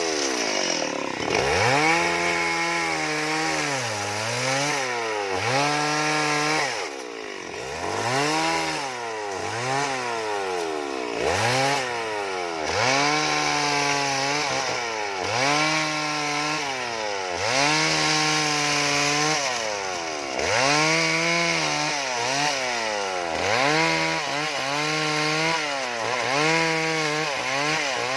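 Chainsaw carving wood, its engine revving up and dropping back over and over, about once every second and a half.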